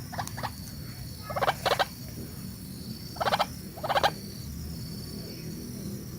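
White-breasted waterhen (kareo padi) giving short, harsh, buzzy call notes, about six in all, some in quick pairs, over a steady faint high-pitched background tone.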